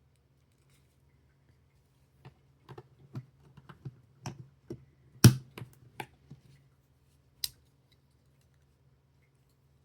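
Small plastic building bricks clicking and tapping as they are handled and pressed together: a quick run of clicks with one sharp snap about five seconds in, and a single last click a couple of seconds later.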